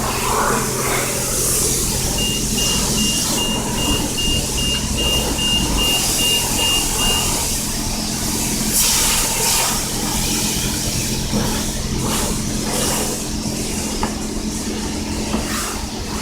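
Self-serve car wash pressure wand spraying water with a steady hiss over the hum of the bay's pump. A rapid run of short high beeps sounds for about five seconds from about two seconds in.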